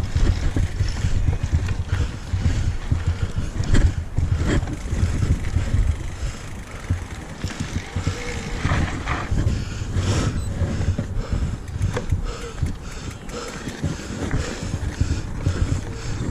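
Mountain bike descending a dirt trail: a steady rumble of tyres and wind on the microphone, with irregular clicks and rattles as the bike goes over bumps.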